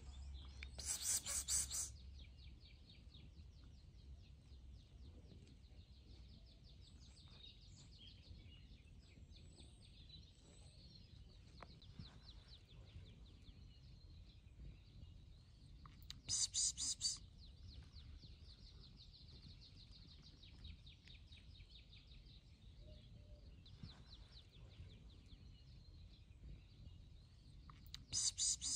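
Outdoor ambience of birdsong: a loud, fast, high chirping call comes three times, about a second in, about sixteen seconds in and near the end, over a steady fast high chirring in the background.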